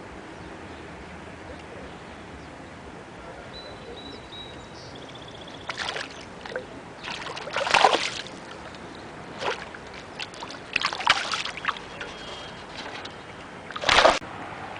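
Water splashing and sloshing in irregular bursts, starting about six seconds in, over a steady faint hiss; the loudest splash comes near the end.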